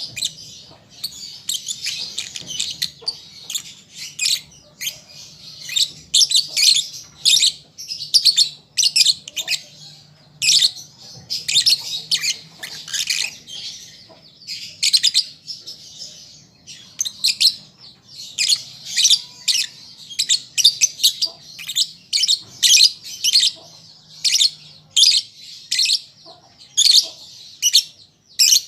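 Young lovebird chirping in quick runs of shrill, high chirps, breaking off and starting again every second or so.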